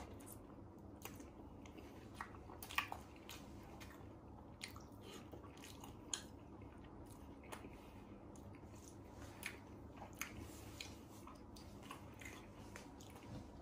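A person chewing a mouthful of battered fried mushroom with cheese: faint, scattered wet clicks and soft crunches, one louder about three seconds in.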